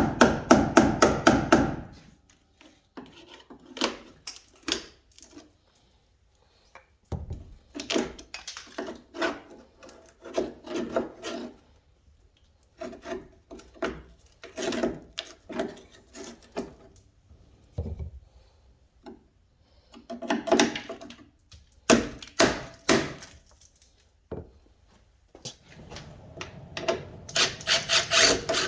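Rapid back-and-forth scraping strokes by hand, several a second. They come in runs of a few seconds, broken by short pauses.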